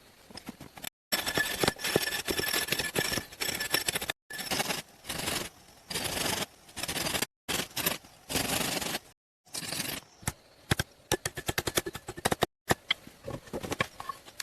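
A series of short, abruptly cut segments of noisy scraping and rapid knocking, typical of hand work on wood or stone.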